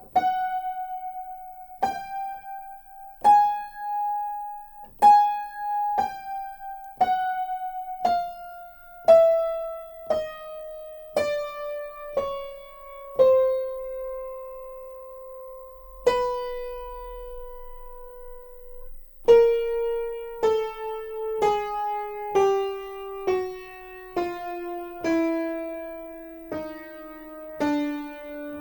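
Aldrich spinet piano played one key at a time, about a note a second, stepping down the keyboard note by note with a few notes repeated and two held longer around the middle. The notes are being checked one by one for how far out of tune they are.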